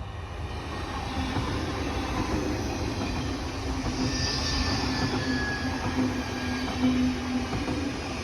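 A train running through the station, its sound building over the first couple of seconds. A steady low whine carries most of the way through, with a brief higher squeal from the wheels or running gear about halfway in.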